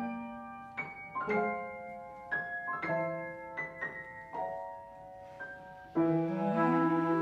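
Live chamber music: a piano plays a slow line of single ringing notes, and about six seconds in the ensemble, led by the cello with bowed strings, comes in much louder with held notes, some sliding up and down.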